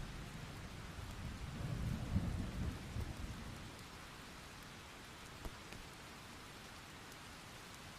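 Steady rain with a rumble of distant thunder that swells about two seconds in and fades away by the middle; after that only the rain continues.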